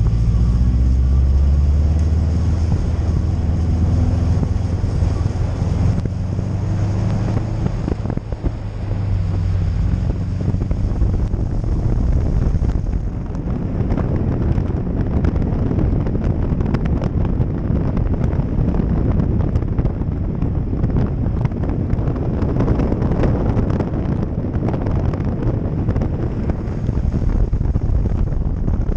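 Subaru WRX's turbocharged flat-four engine running under load, its pitch rising and falling with the throttle through the first several seconds, heard from a microphone on the outside of the door with wind buffeting it. From about halfway, steady wind and road noise cover most of the engine.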